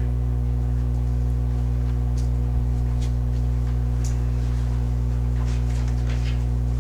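Loud, steady electrical mains hum with a ladder of buzzing overtones, unchanging throughout, with a few faint ticks over it.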